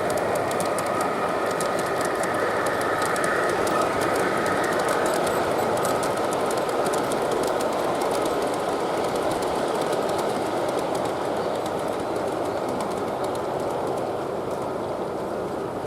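G gauge model train running along garden-railway track, its wheels clicking over the rail joints, with a steady whine that fades out about ten seconds in.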